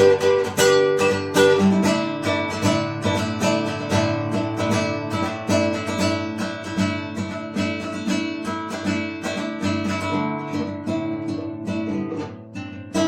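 Acoustic guitar played as an improvised flow of quick plucked and strummed notes over ringing low notes, easing off briefly near the end.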